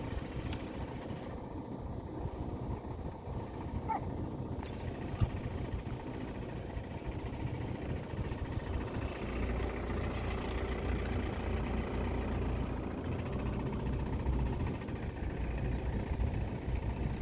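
Safari vehicle's engine running with a steady low rumble that grows heavier about halfway through.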